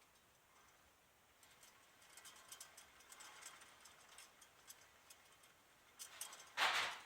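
Faint, irregular clicking from a worn front wheel hub bearing being turned, with a short louder scrape near the end. The bearing is judged to be done.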